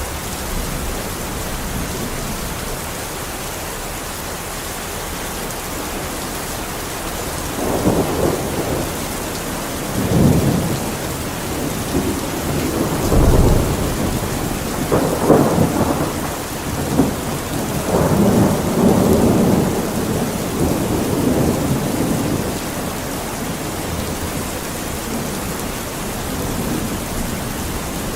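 Steady heavy rain, with thunder rolling in about a quarter of the way through: several rumbling surges that swell and fade through the middle, then the rain alone again near the end.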